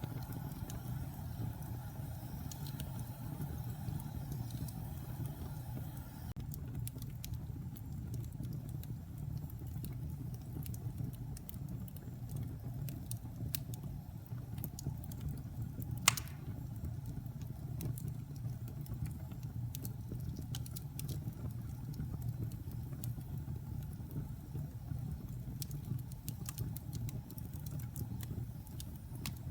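Log fire burning in a fireplace: a steady low rumble of flames with scattered small crackles, and one sharp, loud pop about halfway through.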